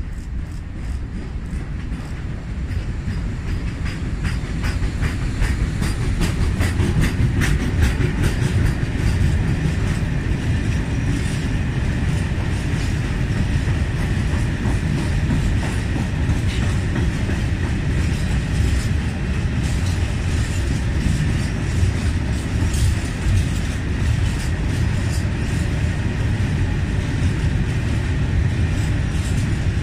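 A long freight train of open gondola wagons rolling past, its wheels giving a steady low rumble with rapid clicking over the rail joints. It grows louder over the first several seconds as the locomotive and first wagons come by, then stays steady.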